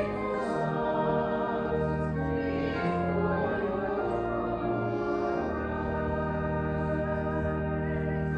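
Organ music: sustained chords held over a bass line that steps slowly from note to note.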